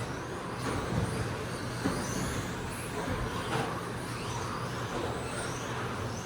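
Several 13.5-turn brushless electric RC stadium trucks racing around a track: short high motor whines rise again and again as they accelerate, over a low steady hum.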